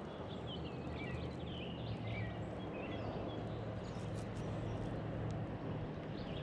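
Outdoor riverside ambience: small birds chirping in short repeated notes, mostly in the first couple of seconds, over a low steady hum and an even background hiss.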